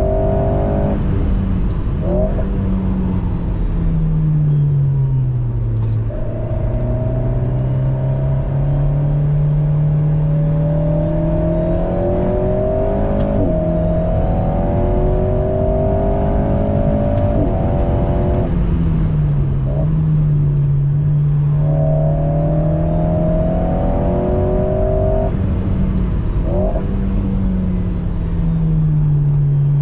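Alpine A110 Pure's stock 1.8-litre turbocharged four-cylinder engine heard from inside the cabin while lapping a circuit: the engine note climbs in pitch under acceleration, drops abruptly at each gearchange, and glides down as the car slows, over steady tyre and road noise.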